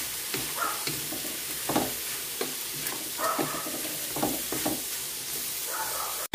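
Shrimp and garlic sizzling in a wok under a steady frying hiss. A wooden spatula stirs them in repeated scraping strokes against the pan.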